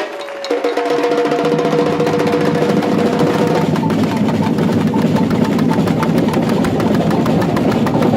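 Batucada samba percussion ensemble playing, with drums and sharp wood-block-like hits in a fast, dense rhythm that fills in about a second in.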